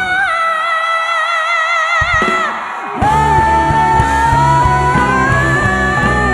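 A female singer belts long held high notes with vibrato over a live rock band. The band drops out for a couple of seconds, then comes back in full about three seconds in under a long sustained note.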